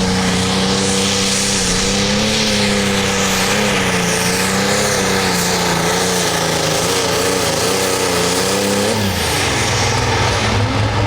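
Hot Farm class pulling tractor's diesel engine running flat out under load while pulling the sled, its pitch wavering. About nine seconds in the revs drop sharply as the engine is throttled back at the end of the pull.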